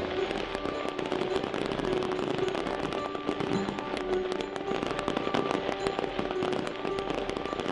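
Fireworks display: a dense, continuous run of pops, bangs and crackles from shells bursting in quick succession.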